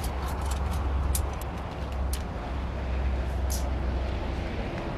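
A vehicle engine idling with a steady low rumble. Several sharp clicks and taps sound over it.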